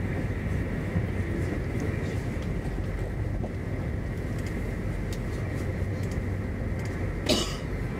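Inside an SJ X40 double-deck electric train running along the track: steady rumble of the wheels on the rails with a steady high whine. A brief sharp rushing noise about seven seconds in.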